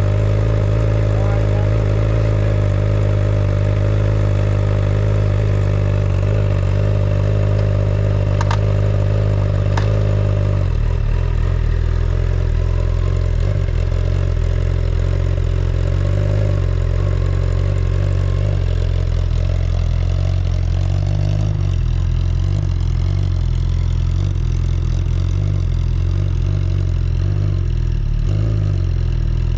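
Motorcycle engine running steadily just after starting. Two sharp clicks come about eight and ten seconds in, and the engine note changes shortly after.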